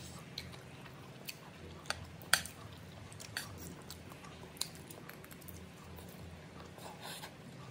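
Close-up chewing of a mouthful of chicken biryani, with a few sharp clicks of a metal spoon, the loudest a little over two seconds in.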